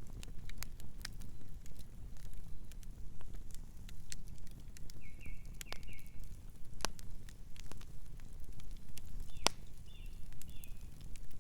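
Campfire crackling: irregular sharp pops and snaps from the burning wood over a steady low rumble of the flames. A few short, high chirping sounds come in around the middle and again near the end.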